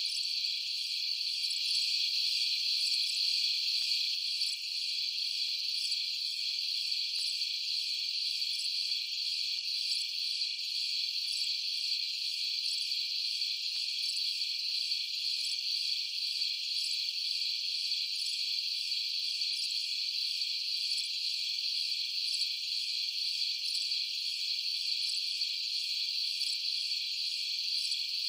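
Crickets chirping in a dense, continuous night chorus, a steady high-pitched trilling that does not let up.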